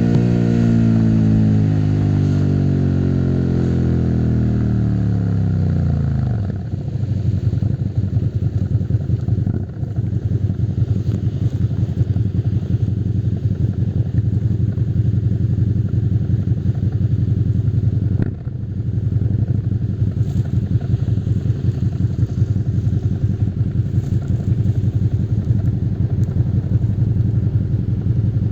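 Suzuki SV650's 90-degree V-twin engine coming off the throttle, its note falling steadily for about six seconds, then settling into a steady low, lumpy beat at low revs.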